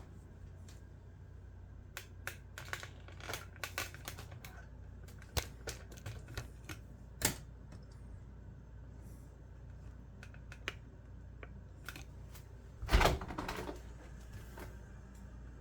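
Irregular light plastic clicks and taps from handling a vacuum cleaner's parts, with a louder knock and rattle about 13 seconds in; the vacuum motor is not running.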